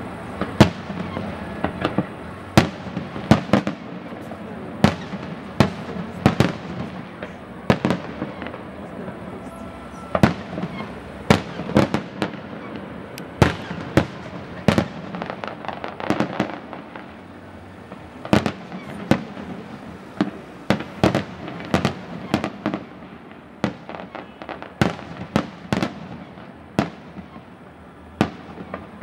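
Fireworks display: aerial shells bursting with sharp bangs in quick, irregular succession, at times two or three within a second, over a continuous background wash.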